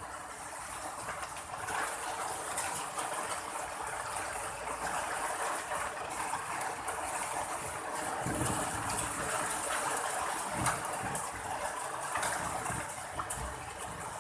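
Heavy rain pouring steadily, getting a little heavier after the first couple of seconds, with some low rumbling surges in the second half.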